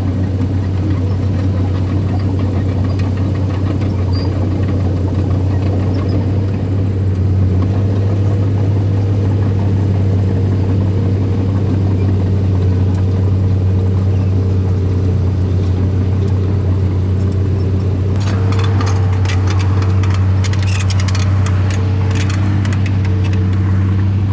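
Earthmoving machine's diesel engine running steadily with a deep, even hum. From about three-quarters of the way through, a fast clatter of metal clanking and scraping joins it.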